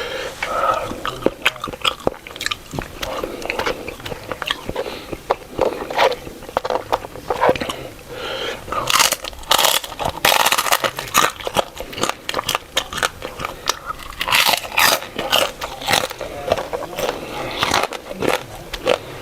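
A person chewing and biting crunchy food close to the microphone, with wet mouth sounds and clusters of loud crunches about nine seconds in and again around fifteen seconds.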